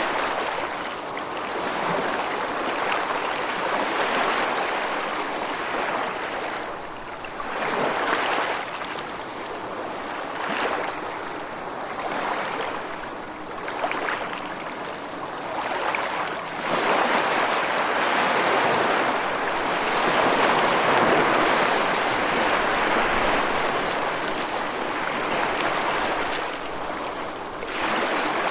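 Rushing water: a continuous wash that swells and eases every few seconds, with one longer surge past the middle.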